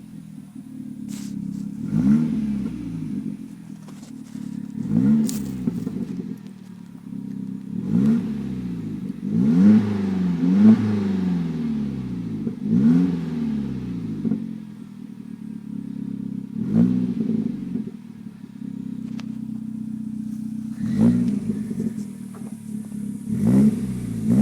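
Hyundai Genesis Coupe 2.0T's turbocharged four-cylinder through a Turbo XS GT-spec cat-back exhaust with stock downpipe, idling and blipped about ten times. Each quick rev rises and drops back to idle, with a cluster of revs around the middle.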